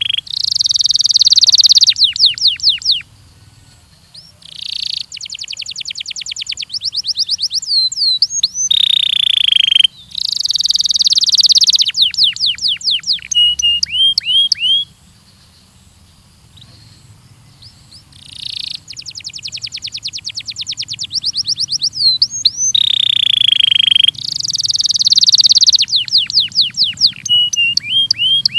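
Belgian canary singing: long, loud phrases of fast trills and rapidly repeated notes mixed with short sweeping whistles. There are pauses about three seconds in and again around fifteen seconds in.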